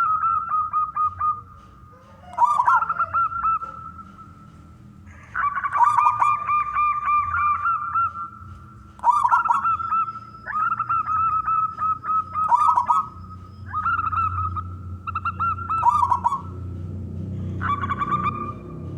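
Zebra dove (perkutut) singing: short phrases of rapid, stuttering cooing notes, repeated about every two seconds with brief pauses.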